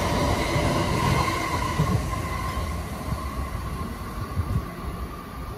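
An orange-striped JR Musashino Line electric train running past along the platform and away, its wheels rumbling on the rails with a steady whine. The sound fades as the last cars clear the station.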